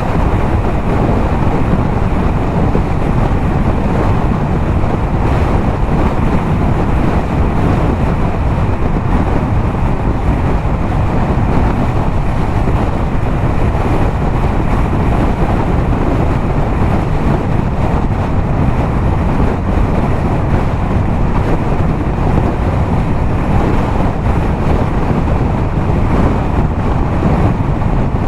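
Yamaha MT-07's parallel-twin engine running at steady highway speed through a LeoVince aftermarket exhaust, largely buried under steady wind rush on the microphone.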